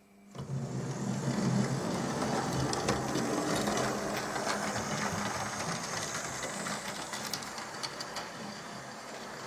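Hornby Railroad OO-gauge model of the BR Standard Class 8 'Duke of Gloucester' running over model track and points. Its small electric motor whirs steadily, with many quick clicks as the wheels cross rail joints and pointwork. It starts up about half a second in.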